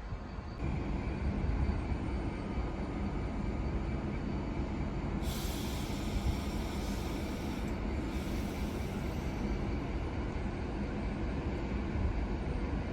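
A train running at a station platform: a steady low rumble with a hum, and a high hiss about five seconds in that lasts about four seconds, with a short break.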